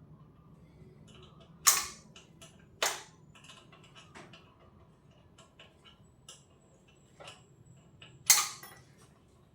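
Tools and metal parts knocking and clicking during hand work to free a motorcycle's front brake cable, with three sharp clanks: two close together about two seconds in, and one near the end.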